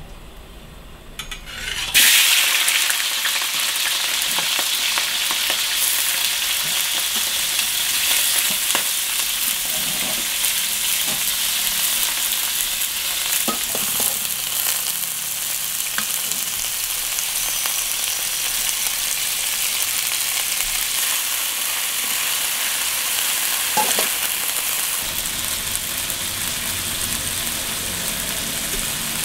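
Raw frog pieces frying in a metal wok: a sudden loud sizzle about two seconds in as they hit the hot pan, then a steady sizzle, with a metal spatula now and then scraping and clicking against the wok as they are stirred.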